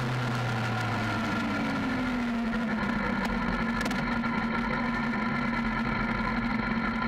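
Yamaha FZS600 Fazer's inline-four engine slowing, its pitch falling, then settling into a steady idle about two and a half seconds in.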